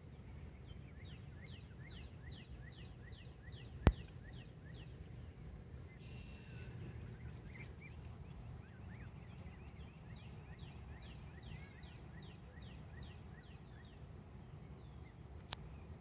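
A bird calling a long run of short, high, falling notes, about three a second, that pauses midway and then starts again, over a low rumble. A sharp knock about four seconds in is the loudest sound.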